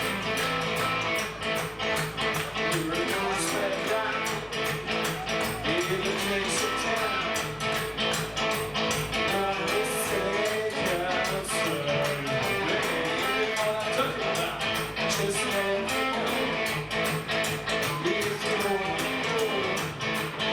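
Live band playing an upbeat rock number: guitar playing over a steady, fast drum beat.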